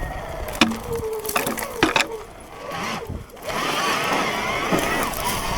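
Sur-Ron electric dirt bike riding over dirt: a few sharp knocks in the first couple of seconds, then a steady rush of tyre and wind noise.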